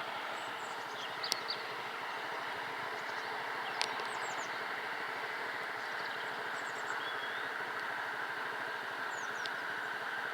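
Steady outdoor background hiss with small birds chirping on and off through it.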